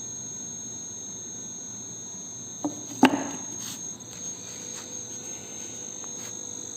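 Crickets trilling steadily in a high, even tone, with a sharp knock about three seconds in and a few faint ticks after.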